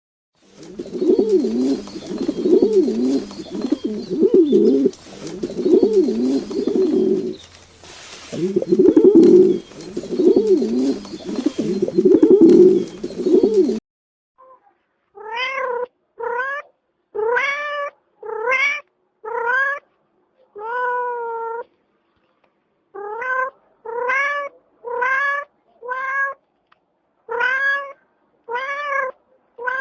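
A cat meowing over and over, short rising-and-falling meows about once a second, through the second half. Before that, for about fourteen seconds, a lower, wavering animal call repeats over a faint background hiss.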